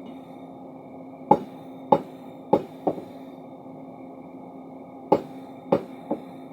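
Hammer blows on steel while forging a crowbar: seven sharp ringing strikes in two groups, four and then three, over a steady machine hum.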